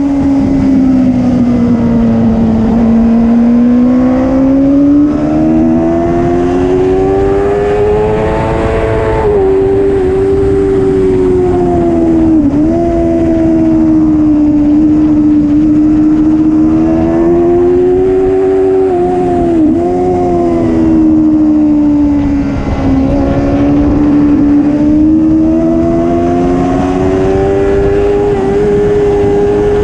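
Racing superbike engine running at high revs without a break, its pitch climbing and falling as it accelerates and slows, with a few sharp momentary dips in pitch along the way.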